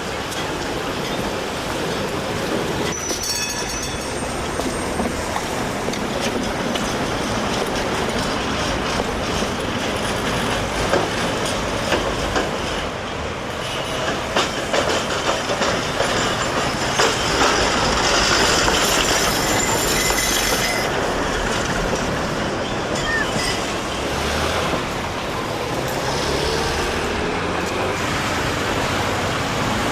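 Tram running on street rails, with a run of sharp clicks from the wheels partway through and brief high wheel squeals, one short one near the start and a brighter stretch past the middle.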